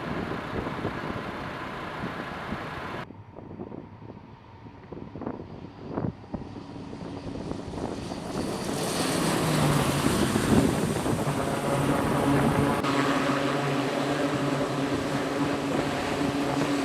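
The Hawkeye's twin turboprop engines running. After a sudden cut and a few knocks, the propeller noise builds about eight seconds in to a steady loud drone with a low propeller hum.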